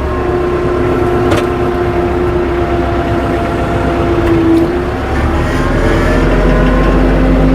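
Tractor engine running under load, its pitch sitting low at first and rising again about five and a half seconds in.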